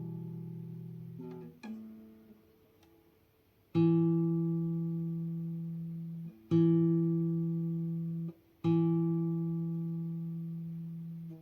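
Acoustic guitar accompaniment with no singing: a chord fades out, then three chords are strummed a few seconds apart. Each one is left to ring and is damped just before the next.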